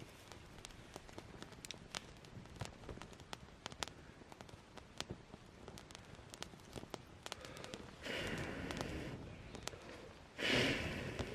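Wood campfire crackling with scattered sharp pops, and two rushes of noise near the end, about a second each, the second louder.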